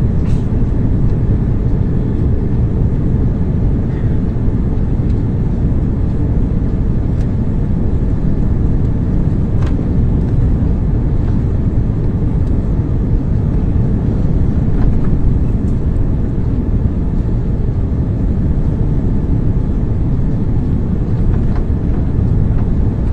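Steady low rumble of an airliner's engines and airflow, heard from inside the passenger cabin, with a few faint clicks.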